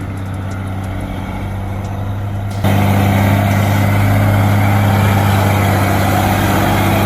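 Heavy truck engine running at a steady pitch, turning abruptly much louder and noisier about two and a half seconds in.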